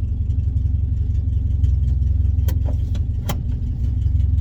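Ford Cortina P100 pickup's 1.6 Pinto four-cylinder engine running steadily at a deep rumble through its weld-patched exhaust. Two sharp clicks sound over it, about two and a half and three and a quarter seconds in.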